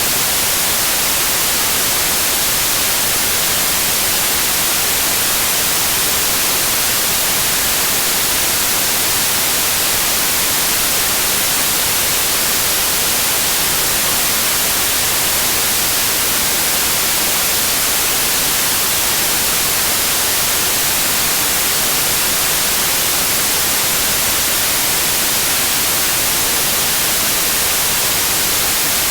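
Synthetic white noise: a steady, even hiss, strongest in the high end, that does not change.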